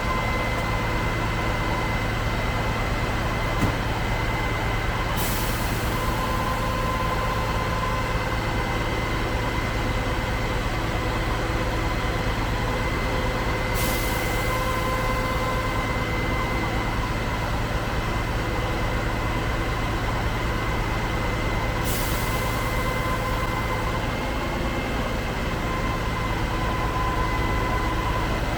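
Concrete pump truck's diesel engine running steadily at work, with a steady high whine over it and a short hiss about every eight seconds.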